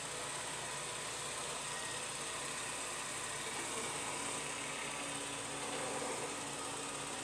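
LG R76GIM robot vacuum running in mopping mode: a steady whir of its fan and drive motors with a constant high whine.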